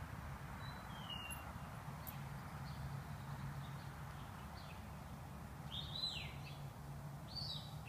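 Birds calling outdoors: a few short chirps and whistling glides, about a second in, around six seconds in and near the end, over a steady low hum.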